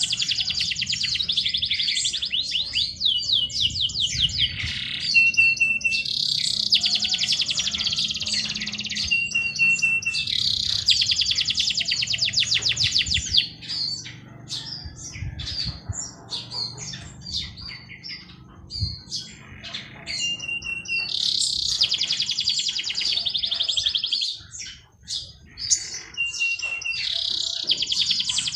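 A songbird singing long, rapid trilled phrases of a few seconds each, several of them ending in a short steady whistled note. In the middle the song pauses, leaving scattered short chirps.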